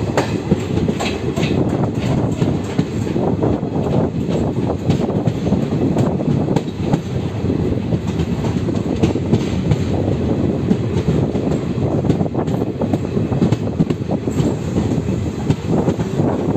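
Passenger train running along a station platform, heard from the open coach doorway: a steady rumble of wheels on rails with frequent clicks over rail joints.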